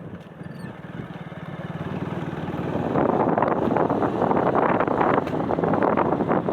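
Motorcycle engine running while being ridden, with a rushing noise that grows louder over the first three seconds and then holds.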